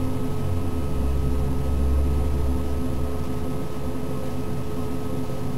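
Desktop computer's fan and motor running: a steady hum with a couple of faint steady whining tones. The low rumble swells in the first half, then settles.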